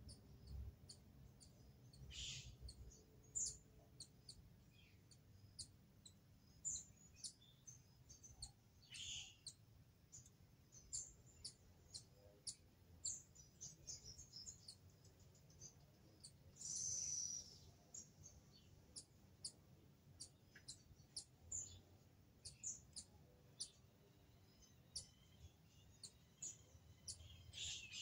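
Small birds chirping faintly in the undergrowth: many short, high chirps scattered irregularly throughout, with one longer, louder call a little past the middle.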